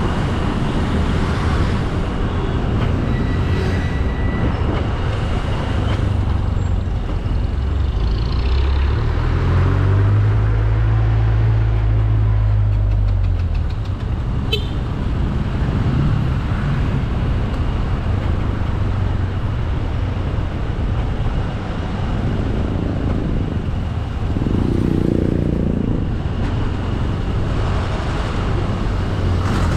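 Motorcycle engine running under way, with steady wind and road noise on a bike-mounted camera microphone. A deep low drone swells between about nine and thirteen seconds in.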